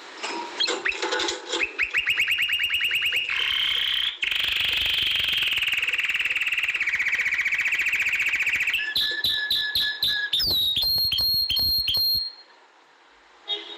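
Domestic canary singing: a long song of very rapid trills and rolls that shift to new pitches every few seconds, then short clipped notes and a falling note into a held high whistle, ending suddenly about 12 seconds in.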